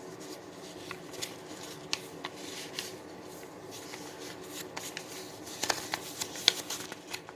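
Sheet of paper being handled and folded: scattered crinkles and small taps, with a short run of louder crackles about six seconds in.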